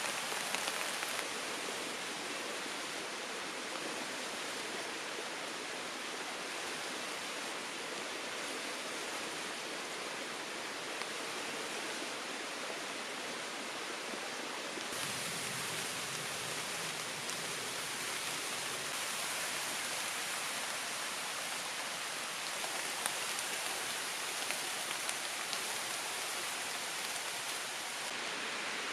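Steady rain falling in a forest, an even hiss with a few sharper drop ticks here and there. The texture of the rain shifts a little about halfway through.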